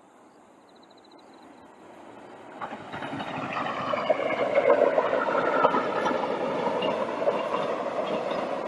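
Passenger train passing, its running noise swelling over the first few seconds as it approaches and then holding steady, with a few sharp clicks from the wheels on the rails.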